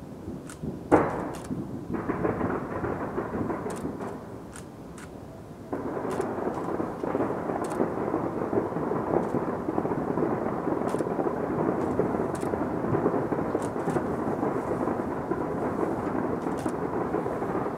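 Distant fireworks from a skyscraper display exploding in a dense, continuous rumble, with a sharp bang about a second in. The barrage grows fuller and louder from about six seconds in, with scattered sharp crackles over it.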